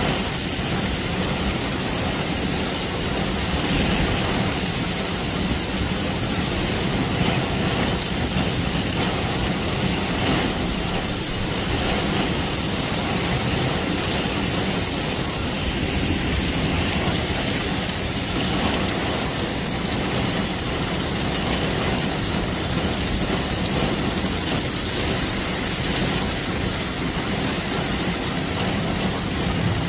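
Heavy rain pouring down steadily onto flooded pavement, a dense, even hiss.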